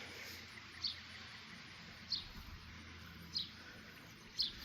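A bird calling outdoors, a short high falling chirp repeated four times about a second apart, over a faint, steady, high insect-like pulsing.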